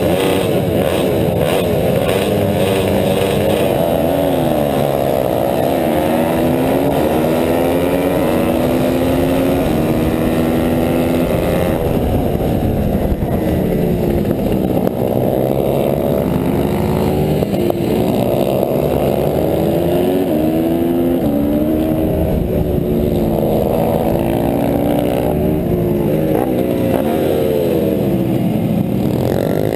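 Honda CRF150R's single-cylinder four-stroke engine racing hard, the revs climbing through the gears and dropping away again and again as it accelerates and slows for corners.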